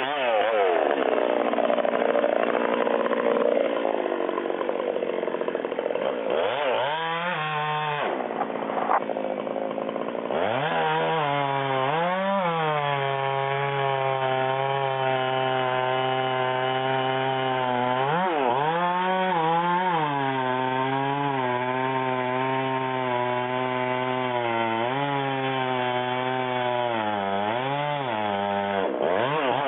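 Chainsaw running hard in a cut, its engine pitch dropping and climbing back several times as it bogs under load and recovers.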